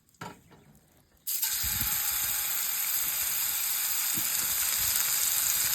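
Food hitting a hot skillet and sizzling: quiet for about a second, then a sudden loud, steady sizzle that carries on.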